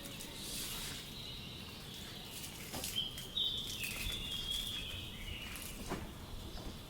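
A bird calling in a short high, thin phrase about three seconds in, over steady outdoor background noise, with a few light knocks.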